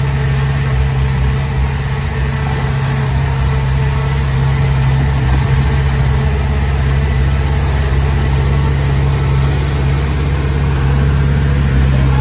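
Diesel engine of a Komatsu D20P bulldozer running steadily, a low hum with no sharp changes.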